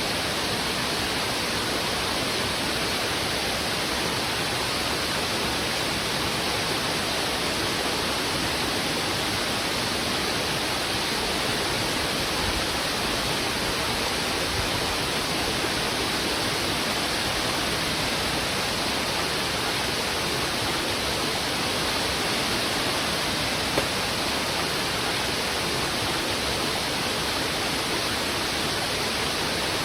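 Heavy river water rushing over rocks in a steady, unbroken roar of white-noise-like flow.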